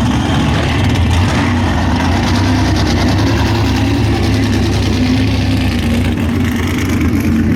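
Engine of a mud bog race truck running loud and steady.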